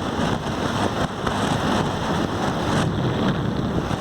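Wind rushing over the microphone of a moving motorcycle, a steady noisy roar with road and engine noise mixed in.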